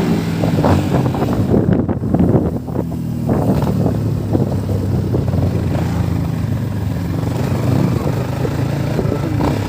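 Motorcycle engine running under way; its note shifts about for the first few seconds, then holds steady.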